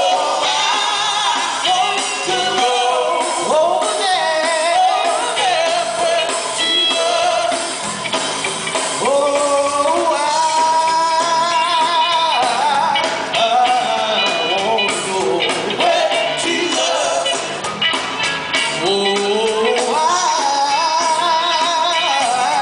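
Live gospel music: a quartet group singing with vibrato over a full band with electric guitar and drums.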